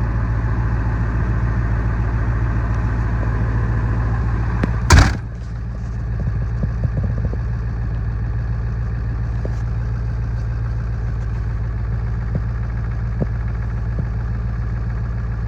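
Ford 7.3-litre V8 diesel idling steadily at low idle just after a near-freezing cold start, its oil still cold. There is a single loud thump about five seconds in, after which the engine sounds a little quieter.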